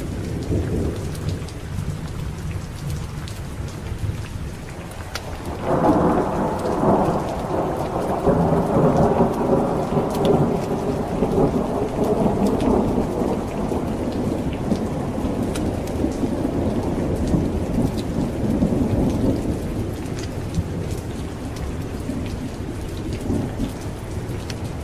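Steady heavy rain with a clap of thunder breaking in suddenly about six seconds in. The thunder rolls on for over ten seconds before fading back under the rain.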